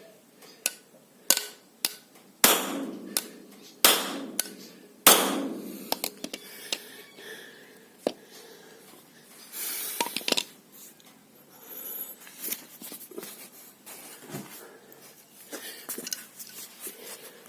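Hammer blows on a hard object: about six sharp strikes in the first five seconds, each ringing briefly, then lighter knocks and clinks.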